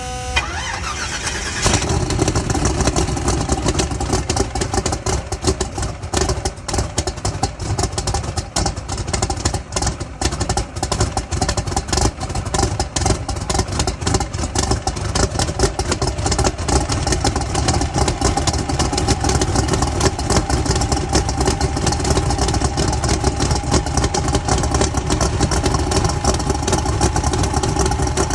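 The 2,800-plus-horsepower twin-turbo Chevy Nova's engine cranking on the starter and catching about two seconds in, then idling loud and choppy, with a steady stream of uneven pops.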